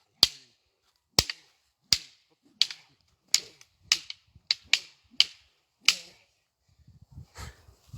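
Wooden fighting sticks striking each other in a sparring drill: about ten sharp clacks at a steady pace of roughly one every two-thirds of a second. Near the end the strikes grow fainter and a low rumble sets in.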